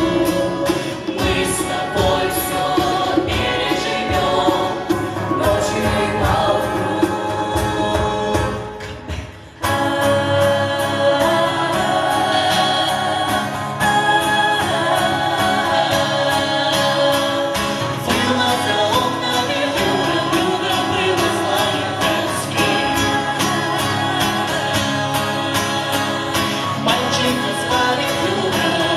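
Vocal ensemble singing together in harmony over a steadily strummed acoustic guitar. The music thins out and dips about nine seconds in, then comes back fuller.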